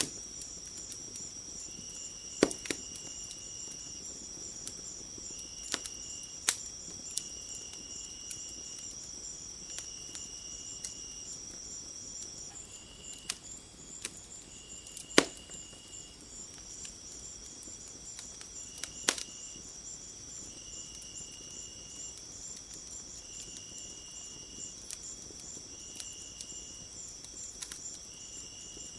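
Crickets trilling steadily, high-pitched, while another insect chirps in repeated phrases of about a second with short gaps. Over them, a wood fire gives a handful of sharp pops and crackles.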